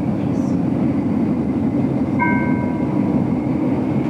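GoldenPass Belle Époque train rumbling steadily along the rails, heard from inside the carriage. About two seconds in, a brief high ringing tone sounds and fades within about half a second.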